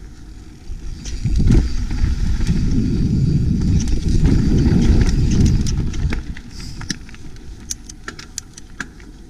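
Off-road vehicle crawling over rough trail: a loud low rumble of engine and tyres on rock that swells for several seconds and then eases off. Scattered sharp knocks and clicks run through it, thickest toward the end.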